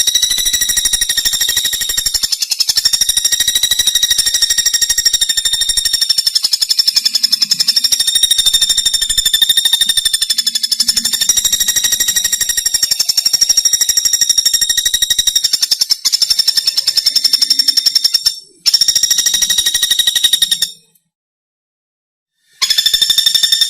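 Pelatuk bawang bird song: a loud, unbroken, very rapid high-pitched trill whose pitch wavers slightly. It dips briefly near the end, then falls silent for about two seconds before starting again.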